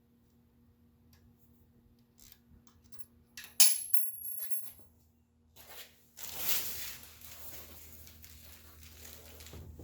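Hand work on small metal hardware: light clicks and one sharp metallic clink that rings for about a second, like a nut or wrench striking metal, followed by a brief rustle.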